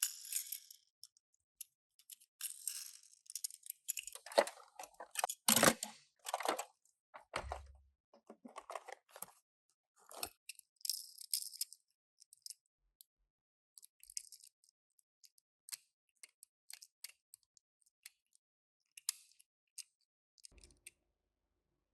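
Intermittent handling noise from unboxing Tomica die-cast minicars: short rustles and crinkles of packaging with scattered clicks and taps, the busiest stretch between about four and seven seconds in.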